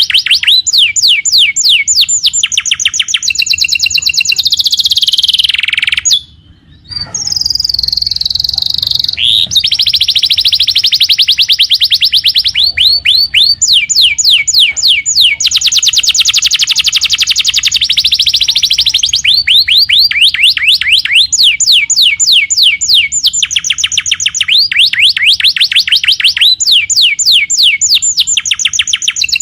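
Domestic canary singing in full, continuous song: long runs of rapid, high repeated notes rolled into trills, one phrase straight after another, with a short break about six seconds in.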